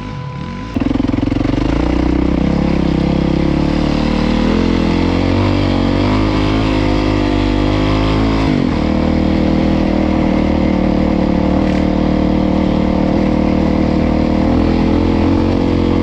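Dirt bike engine running hard under load on a hill climb, its revs rising and falling several times, dropping sharply about halfway, then holding steady.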